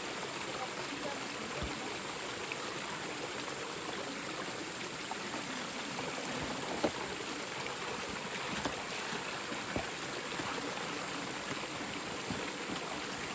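Mountain stream flowing steadily, with a few brief knocks.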